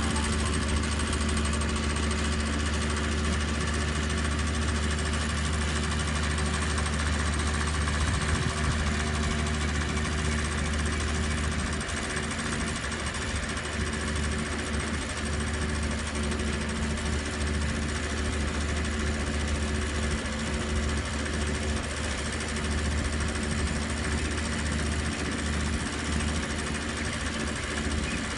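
Small engine of a student-built three-wheeled Shell eco-car running steadily as the car drives along, with an even mechanical rattle.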